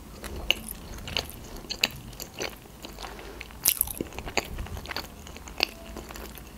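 A mouthful of sushi roll being chewed with the mouth closed: irregular crisp crunches and small wet clicks, the loudest crunch a little past halfway.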